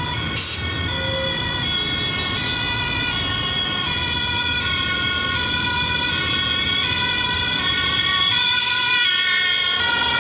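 A two-tone siren alternating between a higher and a lower note, over a low steady rumble.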